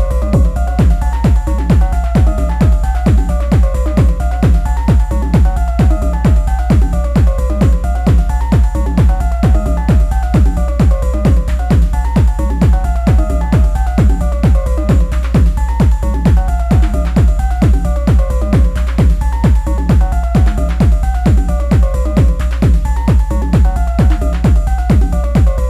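Improvised techno played live on an Elektron Analog Rytm drum machine: a steady, even kick-drum pulse under a deep held bass, with a repeating riff of short notes cycling above it.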